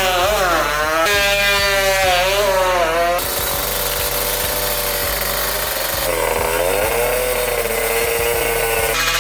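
Kawasaki KR150 two-stroke engine with a 59 mm big-bore kit, open and unmuffled, revving hard with its pitch swinging up and down between high revs. The sound jumps abruptly a couple of times.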